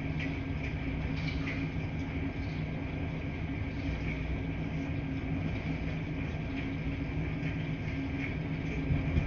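Laundry-room ambience: washing machines running with a steady low hum and rumble, and occasional faint light clicks.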